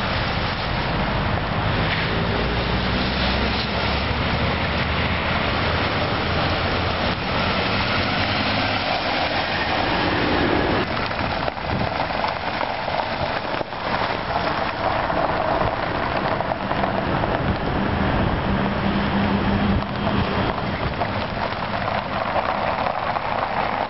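A car being driven: steady road and tyre noise with a low engine hum underneath.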